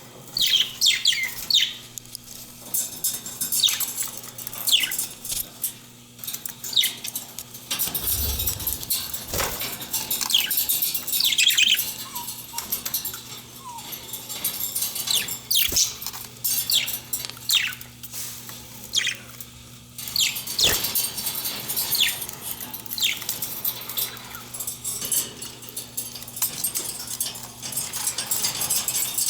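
Pet budgies chirping and chattering: many short, quick downward-sliding chirps one after another, with rustling and wing-flutter in between, over a steady low hum.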